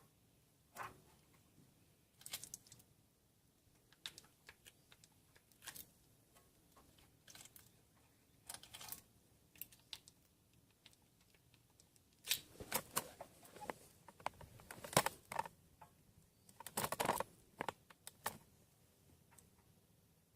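Scattered light clicks and clacks of hand tools being handled during grease work on the truck's front end, sparse at first and bunched into busier clatters past the middle and near the end.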